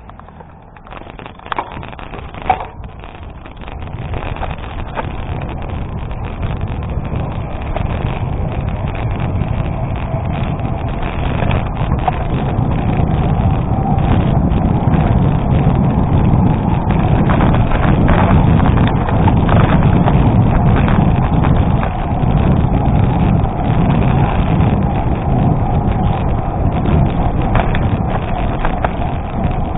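Wind buffeting the microphone and gravel-bike tyres rolling over an unpaved road, growing louder over the first fifteen seconds or so as the bike picks up speed, then holding steady. A couple of sharp knocks from the bike jolting over the rough surface come a couple of seconds in.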